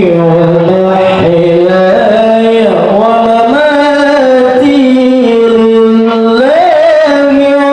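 Male qari reciting the Qur'an in a melodic, drawn-out style, holding long notes that slide up and down with ornamented turns between them.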